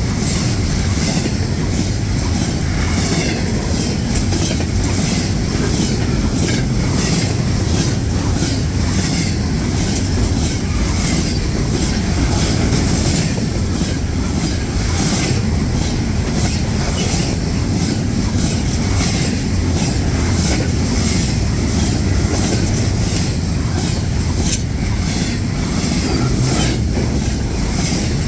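Intermodal freight train's cars rolling past close by: a steady loud rumble with repeated clacks of the wheels over the rail joints.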